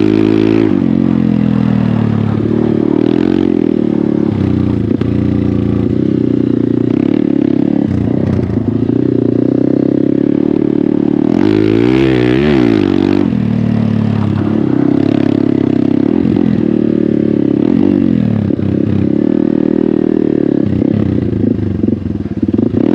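Hero Xpulse 200's single-cylinder engine through an MW Performance aftermarket exhaust, ridden with the revs rising and falling through throttle and gear changes. There is a sharp rev up and back down about twelve seconds in.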